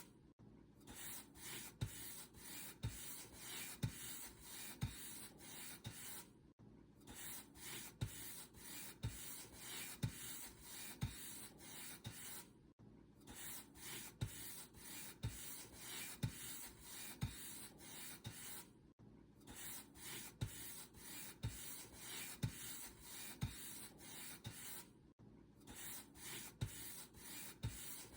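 Paint brush stroking a surface, the bristles swishing back and forth at about one stroke a second with a soft knock on each stroke. The strokes pause briefly about every six seconds.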